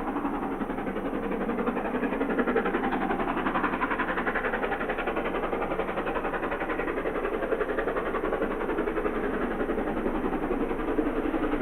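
Ex-LMS steam locomotive working hard on a steep climb, its exhaust giving a rapid, even chuffing that carries on steadily throughout.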